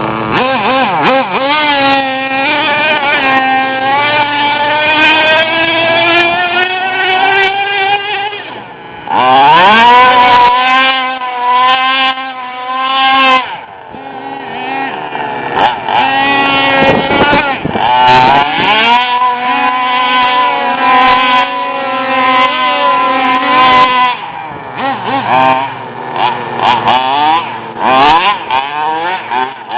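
Small two-stroke nitro (glow-fuel) engines of radio-controlled trucks running at high revs. The pitch climbs steadily at first, then swoops up and down as the trucks accelerate, brake and pass, with short throttle blips near the end.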